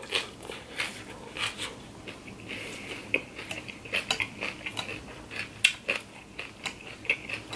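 Crunchy chewing of a mouthful of raw salad, with a metal fork clicking and scraping against a glass baking dish as more salad is picked up; the clicks come irregularly.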